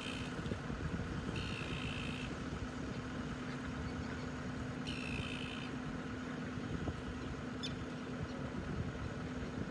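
An engine idling steadily at the hoist dock, with three short high-pitched sounds over it in the first half.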